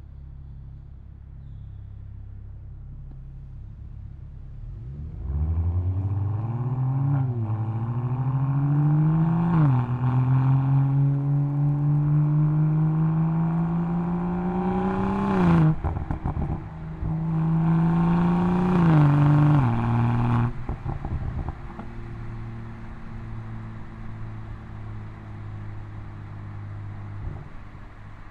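BMW M240i's B58 three-litre turbocharged straight-six, heard through its exhaust. It runs at a low drone, then from about five seconds in accelerates hard, climbing in pitch through several upshifts with sharp drops between gears. There are bursts of crackles when the throttle is lifted around the middle and again a few seconds later, before it settles back to a steady low drone.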